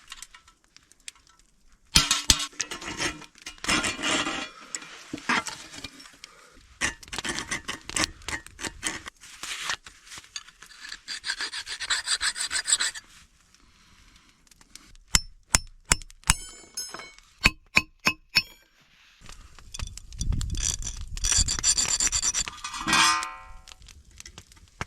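Metalworking on steel: long stretches of rubbing and scraping, then a quick run of about ten sharp strikes on metal, some ringing briefly, followed by more scraping.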